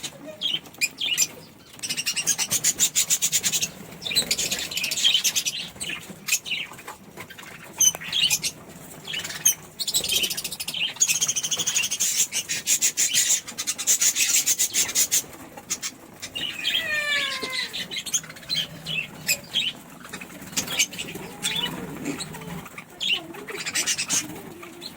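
Budgerigars fluttering their wings in rapid bursts, a short one about two seconds in and a longer run of several seconds near the middle, with scattered chirps and a few short falling calls.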